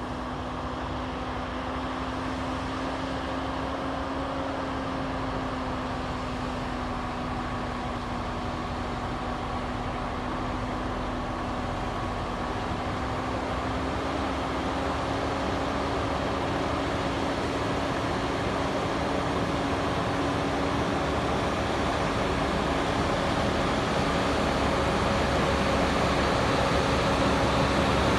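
Mercedes-Benz 4154 8x4 truck's diesel engine pulling under heavy load up a steep grade, a steady drone whose pitch creeps up slightly partway through and which grows gradually louder as the truck draws nearer.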